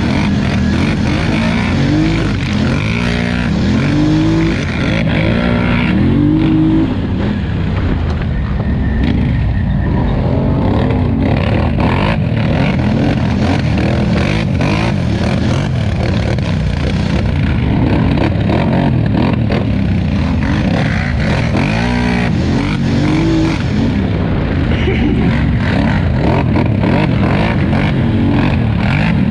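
2018 Polaris Scrambler XP 1000 ATV engine running hard under racing load, its pitch rising and falling over and over as the throttle is opened and eased off.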